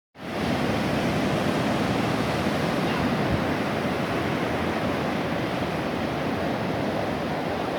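Ocean surf: a steady rush of waves breaking and washing on the shore.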